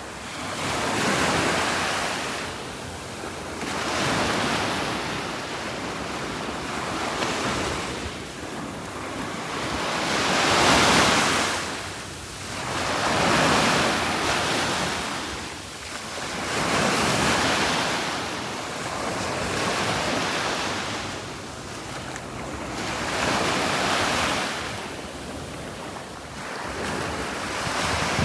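Sea waves breaking and washing up a sandy beach, a wash of surf that swells and fades about every three seconds.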